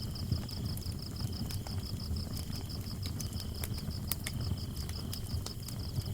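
Wood fire crackling with scattered sharp pops over the low steady noise of the flames, while crickets chirp in a fast, even pulse.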